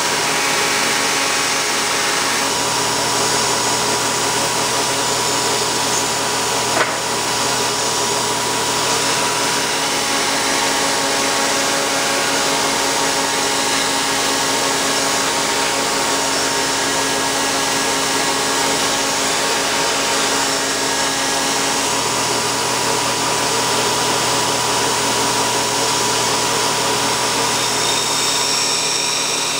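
Home-built 2x72 belt grinder running steadily with its belt at about 6,800 surface feet per minute, grinding metal: a continuous loud whine and rasp. One brief sharp click about seven seconds in.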